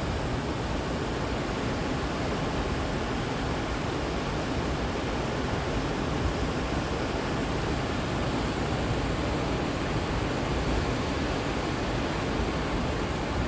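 Steady rush of whitewater from the Potomac River's falls and rapids, running high after heavy rain.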